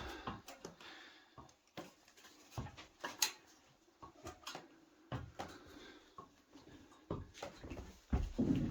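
Irregular knocks, clicks and scuffs in a small room, with a sharper knock about three seconds in and a cluster of louder knocks near the end.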